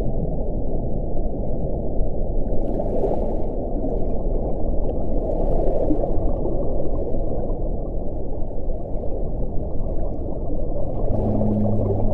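Wind blowing: a steady low rush that swells a few times. Near the end a low steady howling tone comes in.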